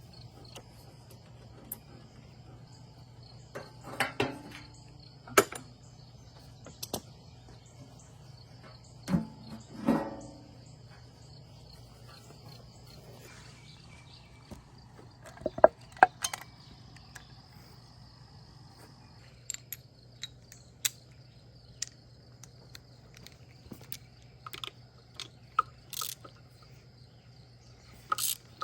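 Scattered clicks and metallic knocks of hand tools and engine parts being handled, with a few louder clanks, over a steady low hum.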